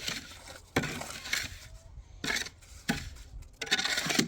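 A few separate sharp clinks and knocks of hard objects, with a quicker cluster of them near the end.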